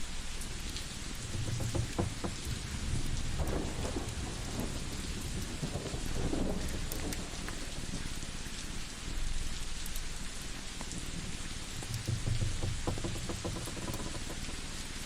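Layered relaxation ambience: a steady rain-like hiss with scattered crackles, joined by a low rumble twice, near the start and again near the end.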